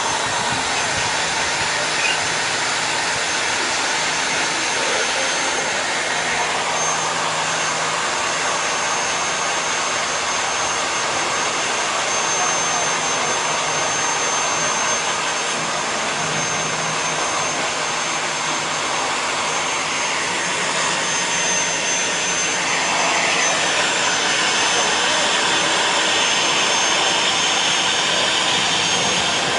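Pressure washer running with a steady rushing hiss and a faint constant high whine. It gets a little louder and hissier about three-quarters of the way through.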